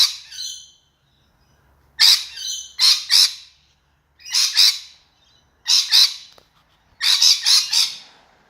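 A lorikeet giving harsh, screeching calls, mostly in pairs or quick runs of three or four, with short silences between. The calls sound at a person approaching too close, a warning to go away.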